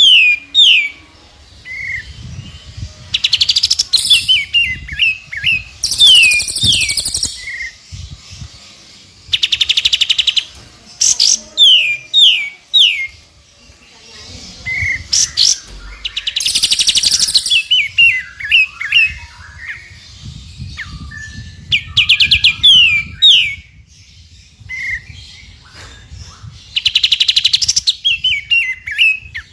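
Recorded songbird song combining several birds, played as a masteran track for training caged birds: runs of quick down-sliding whistles, fast rattling trills and short chirps, repeating in similar phrases every few seconds.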